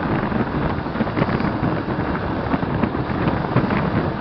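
Steady wind rush buffeting a helmet camera's microphone on a moving motorcycle, with road and traffic noise beneath it.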